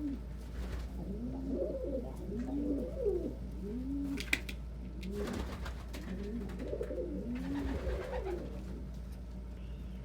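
Domestic pigeons cooing in a run of low coos, each rising then falling, about one a second, with a sharp click about four seconds in. The cooing stops near the end.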